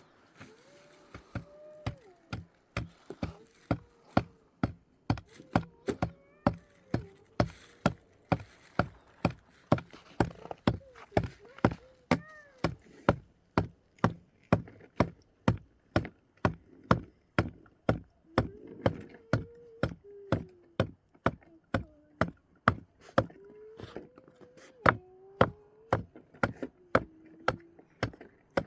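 Steady chopping with a blade, about two sharp strikes a second, under faint rising and falling calls.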